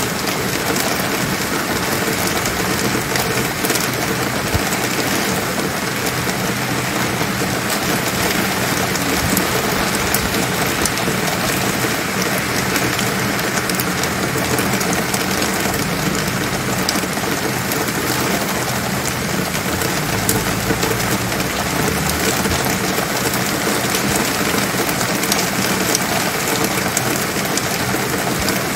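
Steady rain falling on city surfaces: a dense, even hiss with fine scattered drop ticks, over a faint low steady hum.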